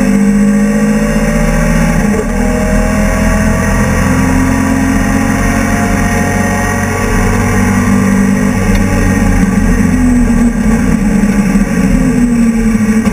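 BMW E30 race car's engine under load, heard from inside its stripped cabin. The note climbs in pitch, breaks briefly about two seconds in, holds steadier, then wavers and climbs again near the end.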